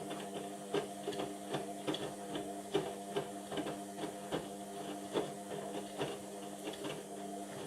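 Indesit washing machine running mid-wash on a cotton cycle: the drum motor hums steadily while irregular clicks and knocks come a few times a second.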